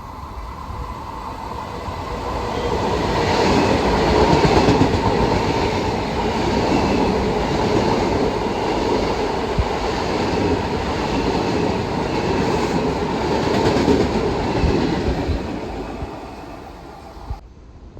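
Long Island Rail Road commuter train going by on the track, its wheels clattering over the rail joints. The sound builds over the first few seconds, holds loud, then fades near the end.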